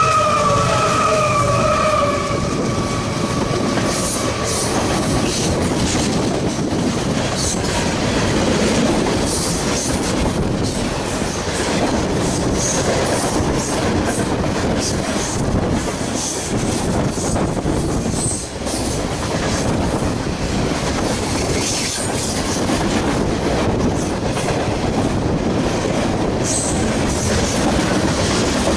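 CSX freight train passing close at speed. Its ES44AC-H locomotive's horn chord sounds for about the first two seconds and fades. Then the locomotives and a long string of freight cars roll by with a steady rumble, wheel clatter over the rail joints, and scattered high wheel squeals.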